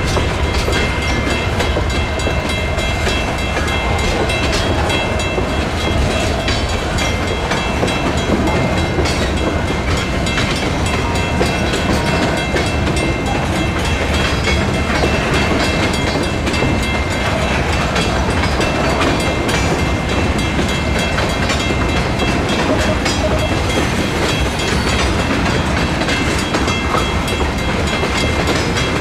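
Freight train's hopper and tank cars rolling steadily through a road crossing, with wheel clicks over the rails and the crossing's WCH mechanical bell ringing.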